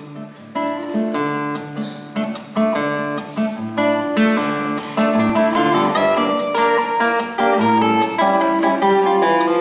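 Acoustic guitar played solo, a quick picked and strummed introduction with bass notes moving under the melody.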